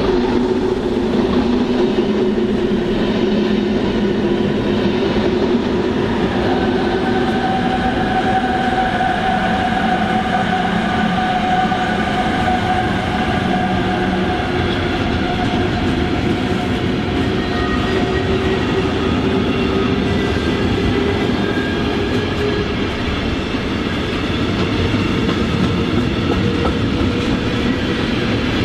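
Freight train of tank wagons hauled by an electric locomotive passing close by: a steady rumble and clatter of wheels on the rails, with several steady ringing tones over it.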